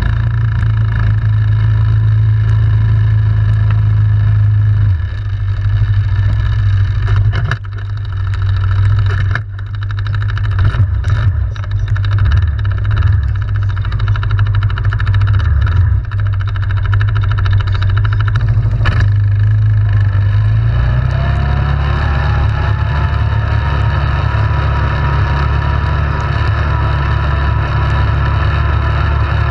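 ATV engine running on a trail ride, throttle opening and closing. There are a few sharp knocks between about 7 and 19 seconds in. After about 21 seconds the engine settles into a steadier, higher note.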